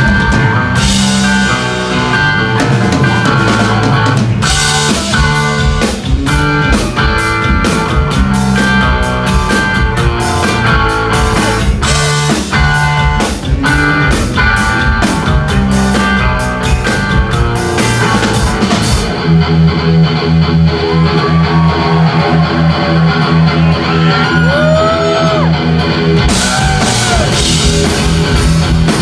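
Live instrumental rock: lead electric guitar with bass and a drum kit. About two-thirds of the way through the drums drop out and the guitar and bass carry on alone, with some bending notes, before the full band comes back in near the end.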